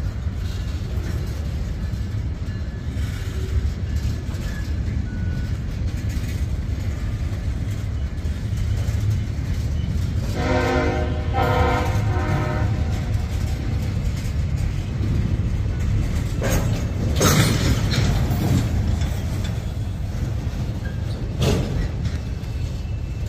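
Freight cars of a CSX manifest train, tank cars and boxcars, rolling past with a steady low rumble. About ten seconds in, a locomotive horn sounds once as a chord for about two seconds, and a few sharp clanks come from the passing cars later on.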